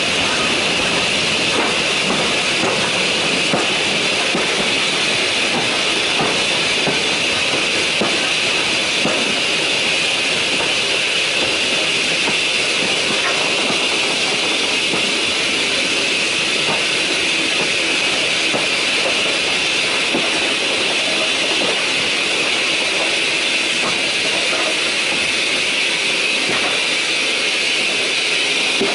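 Steam-hauled passenger train running on the rails: a steady rushing hiss with faint, scattered clicks from the wheels.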